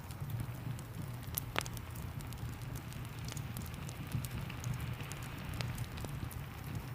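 Wood fire crackling, with scattered sharp pops, over steady rain and a low rumble.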